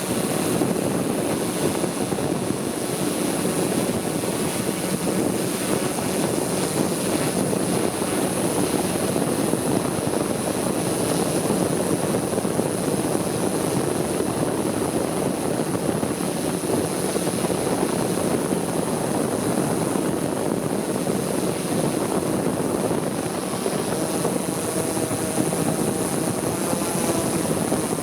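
Multicopter drone's propellers buzzing steadily in flight, with a thin high whine over it.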